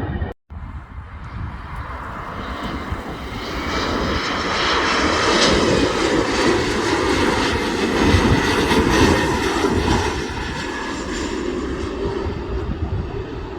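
An aircraft's engines passing by, the noise swelling to a peak about midway and easing off toward the end, after a brief cut just after the start.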